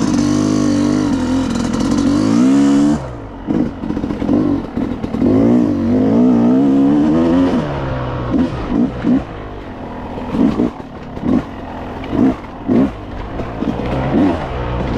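Yamaha YZ250X single-cylinder two-stroke dirt bike engine under hard throttle, cut off abruptly about three seconds in. Revs then rise and fall in waves, followed by a string of short, sharp throttle blips.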